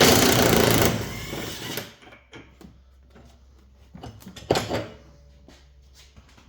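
Loud rattling clatter for about two seconds, then scattered light clicks and a single knock about four and a half seconds in: metal tools and parts being handled.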